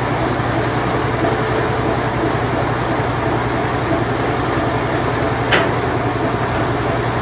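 Late-1980s Whirlpool Imperial Clean Touch washing machine running steadily on its spin cycle, a constant hum over a low drone. One short tick about five and a half seconds in.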